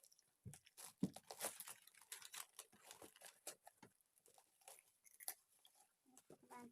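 A parcel's packaging being torn open and crinkled by hand: a faint, irregular run of crackles and rustles.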